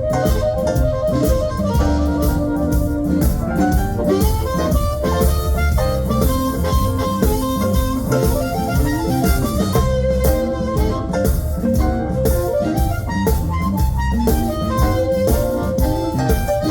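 Live blues band playing an instrumental stretch: keyboard and guitar lines over a steady drum beat.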